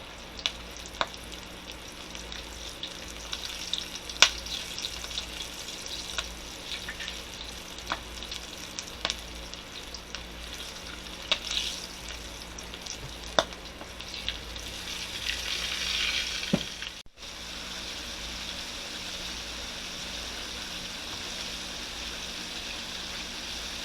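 Flour-dredged chicken legs frying in hot oil: a steady sizzle with scattered sharp pops. The sound drops out for a moment about two-thirds of the way through, then the sizzle carries on.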